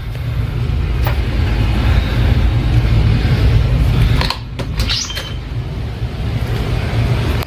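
A loud, steady low rumble, with a short high rising squeal about five seconds in.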